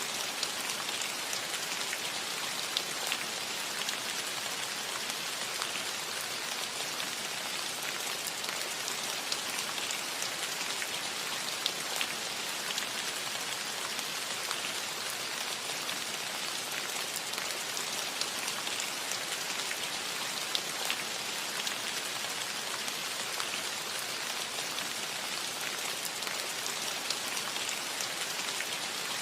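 Steady rain falling on a metal roof: an even hiss of rainfall with many small individual drop ticks scattered through it.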